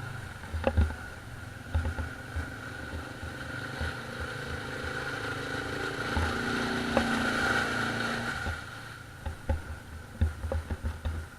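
ATV engine revving, rising in pitch and level through the middle and then dropping away, with irregular low thumps underneath.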